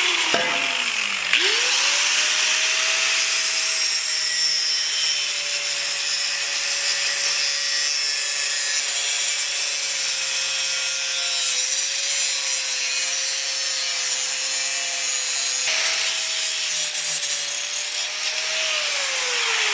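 Electric power tool cutting through a car's metal exhaust pipe. The motor winds up about a second in, runs at a steady pitch under a harsh cutting noise, and winds down in pitch at the end.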